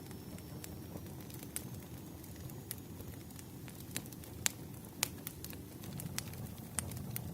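Campfire crackling, with scattered sharp pops over a low steady rumble of the flames; the loudest pops come about four and a half and five seconds in.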